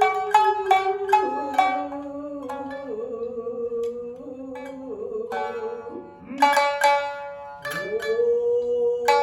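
Two shamisen, the main shamisen and the higher-tuned uwajōshi, playing shinnai-bushi accompaniment: quick, evenly spaced plucked notes at the start and again from about two-thirds of the way in, thinning to sparse notes in the middle. Under the plucks runs a long held lower tone that slides up and down in pitch.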